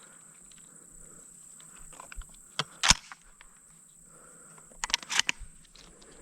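Steady high-pitched drone of insects in a field, with scattered sharp crackles and rustles over it: the loudest about three seconds in and a cluster a little after five seconds.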